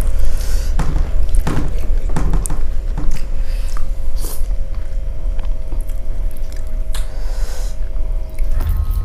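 Close-up eating sounds: moong dal khichuri being chewed, with scattered wet clicks and smacks, over a steady low hum.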